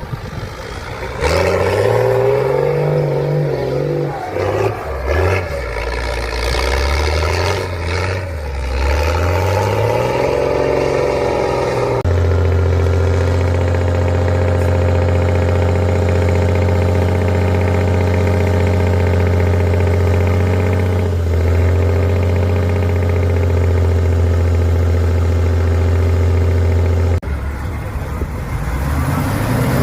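Truck-trial truck's engine revving up and down repeatedly, then held at steady high revs for about fifteen seconds before dropping off near the end.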